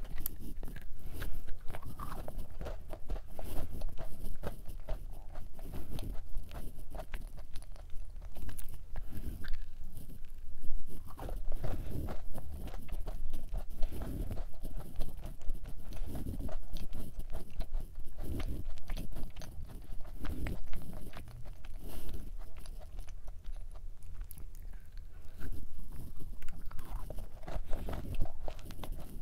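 A person biting into and chewing a thick matcha nut cookie: a bite at the start, then continuous chewing with many small, irregular crunches.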